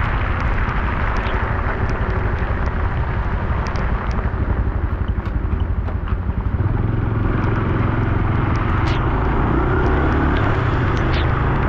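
Honda Super Cub C125's single-cylinder four-stroke engine running under way, with wind and road noise. The engine note wavers briefly near the middle, then climbs steadily in pitch as the bike accelerates.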